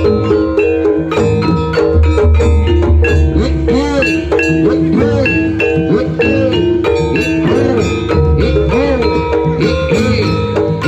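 Loud jaranan gamelan music played over a sound system. Tuned metal mallet percussion plays a fast, repeating melody over drums and heavy bass pulses.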